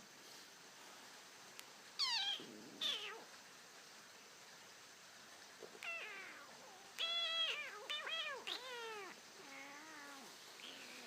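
A cat meowing, about seven short meows, mostly falling in pitch, starting about two seconds in and coming closer together toward the end.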